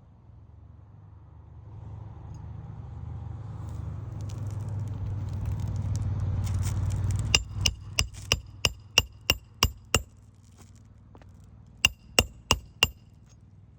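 Hammer driving roofing nails into an old asphalt shingle: a run of about eight quick strikes, about three a second, with a metallic ring, then after a pause four more. Before the strikes a low rumble builds over several seconds and cuts off as the hammering starts.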